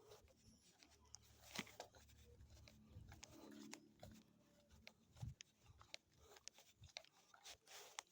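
Near silence, broken by faint scattered clicks and crunches, with a faint low rumble from about one to four seconds in.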